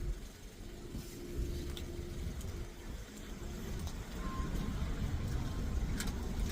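Dodge 300's engine running with a low, steady rumble, with a few faint clicks over it.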